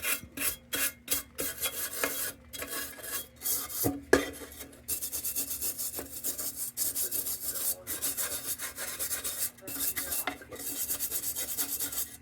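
Rasping hand-scrubbing strokes against the painted metal body of a Dietz No.1 Blizzard cold blast lantern while its old paint and grime are worked off, about three strokes a second at first, then a faster, steady scrub from about five seconds in. A single sharp knock about four seconds in.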